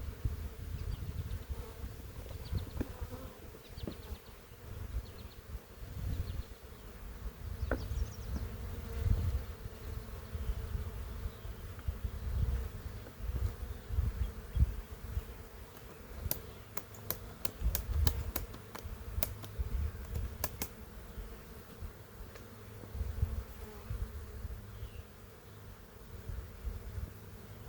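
Honeybees buzzing around an open hive, a steady hum from many bees. A run of sharp clicks comes about two-thirds of the way through.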